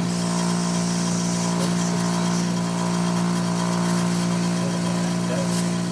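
1960s GE Hi-Thin-Line window air conditioner running with its case off: a steady compressor hum under the rush of the fan. To the men listening, the compressor sounds like a rotary rather than a Tecumseh AJ or pancake.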